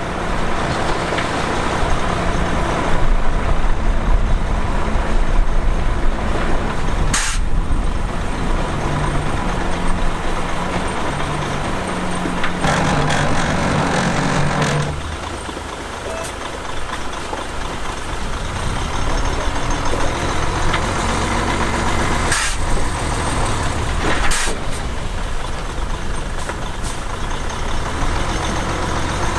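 Heavy diesel machinery running loudly: a crawler bulldozer and dump truck engine working under load. The engine strains harder for a couple of seconds before easing off about halfway through. Several short, sharp air-brake hisses cut across it.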